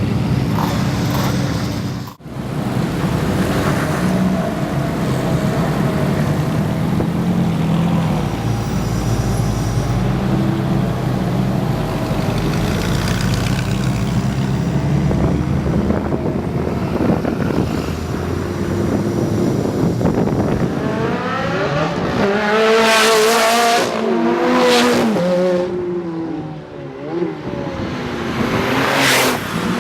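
Ferrari F430 V8 with a Capristo exhaust: a steady low engine rumble, then from about two-thirds of the way through a loud, hard acceleration whose pitch climbs repeatedly, and another rising rev near the end.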